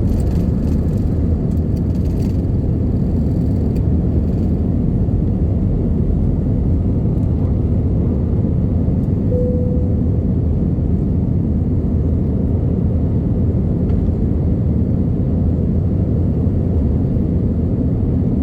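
Airplane engine and airflow rumble heard inside the passenger cabin during takeoff, steady and low, with a brief faint tone about halfway through.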